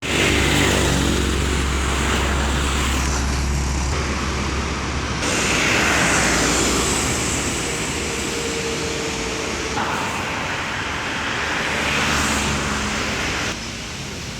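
Motor vehicle and road traffic noise: a steady low engine hum with a continuous rushing haze, changing abruptly several times.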